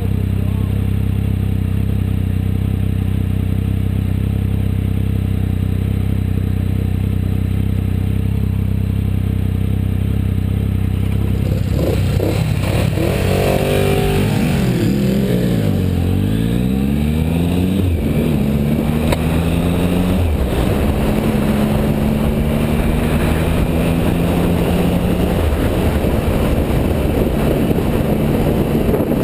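Triumph Speed Triple 1050's inline-three engine idling steadily, then revving and pulling away from a stop about twelve seconds in, its pitch rising and dropping with each gear change before settling into a steady cruise. A second motorcycle accelerates alongside, and wind over the helmet microphone builds with speed.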